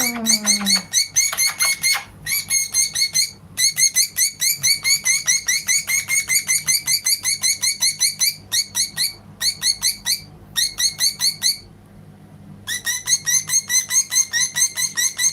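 Female budgerigar calling without letup in rapid, evenly repeated sharp chirps. There are short breaks about three and ten seconds in and a longer one about twelve seconds in. The owner puts the constant calling down to her having become a mother.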